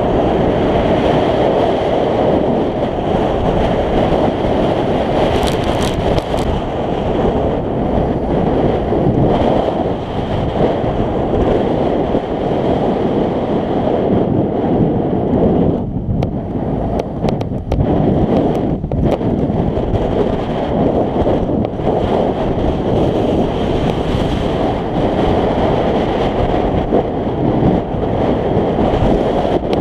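Heavy wind buffeting a camera microphone on a moving scooter, with the scooter's engine and road noise running underneath.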